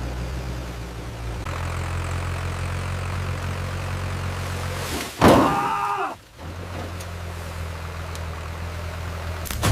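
Tractor engine running steadily under load. About five seconds in, a loud sound falling in pitch cuts across it, then a brief near-silent gap before the engine note returns.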